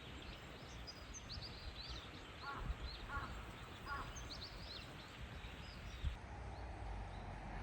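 Small birds chirping in short, quick high notes over faint outdoor background noise; the chirping stops about six seconds in.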